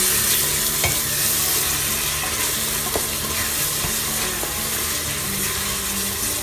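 Onion-tomato spice masala frying and sizzling steadily in hot oil in a pressure cooker while a wooden spoon stirs it, with a couple of light taps of the spoon on the pot.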